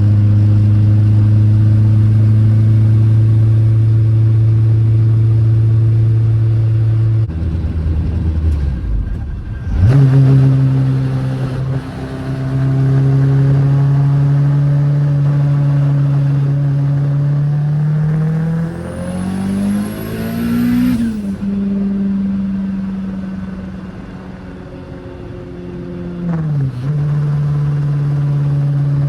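Turbocharged Honda K20 four-cylinder engine in a 1991 Toyota MR2 being driven: steady running with several changes of pitch, then a hard pull about two-thirds of the way through where the engine note climbs and the big turbo lets out a high rising whistle, cutting off sharply as the throttle is lifted.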